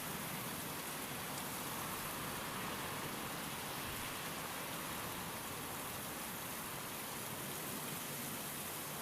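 Steady rain falling, an even hiss of rainfall with no pauses or single loud events.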